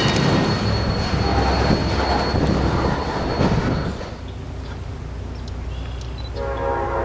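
Freight train cars rolling along street-running track, with a low rumble and a steady high wheel squeal that cut away about four seconds in. Near the end, an approaching Amtrak passenger train sounds its horn in the distance.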